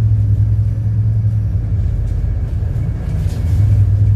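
City bus running along the road: a steady low engine and drive rumble that eases slightly, then picks up again a little after three seconds.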